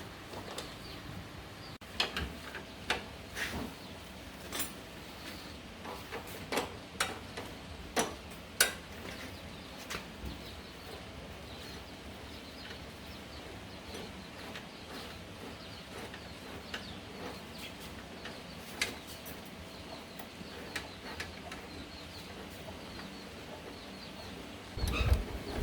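Scattered clicks and knocks of hand work on the Yamaha Sirius, thicker in the first half. Near the end the motorcycle's engine starts with a sudden low burst.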